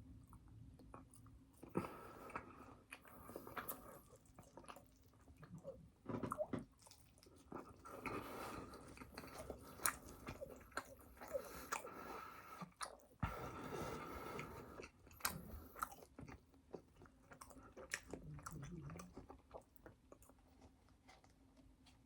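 Close-miked chewing and biting of food, with irregular small crunches and clicks.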